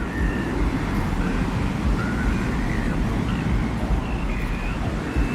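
Desert-wind ambience: a steady, low rumbling wind with an even hiss above it, and faint brief whistling tones coming and going.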